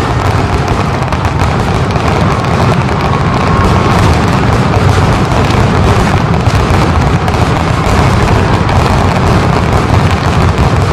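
Aerial fireworks shells bursting in a dense barrage, with many overlapping booms and no gaps between them.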